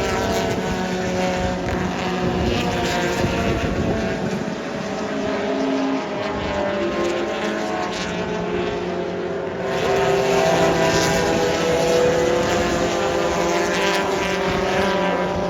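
Historic race car engines running at speed on a racetrack, several overlapping at once. The sound grows louder about ten seconds in.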